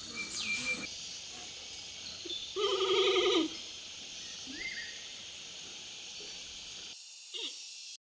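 Giant panda giving one short bleat about three seconds in, over a steady high hiss of background noise. There is a brief falling whistle near the start.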